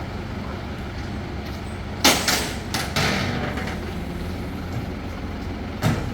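A heavy engine running steadily, with a cluster of loud knocks about two to three seconds in and another sharp knock near the end.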